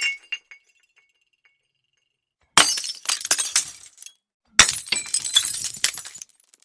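A mug smashing twice, about two seconds apart, each a sharp crash followed by pieces clattering and clinking for a second or so. At the start the shards of an earlier break are still tinkling and ringing as they settle.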